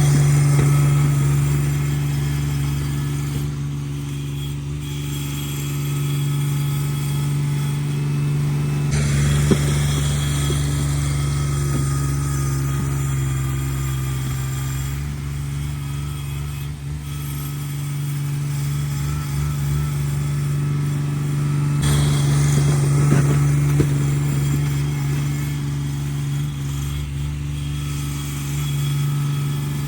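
Cub Cadet 1782 garden tractor's Onan twin-cylinder engine running steadily under way. A noisier, rushing layer builds twice, about nine and twenty-two seconds in.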